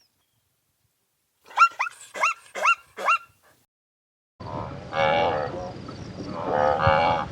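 A young dog yelping about six times in quick, high, short cries that rise and fall in pitch. After a pause, a different recording begins with a steady background noise and longer, drawn-out animal calls.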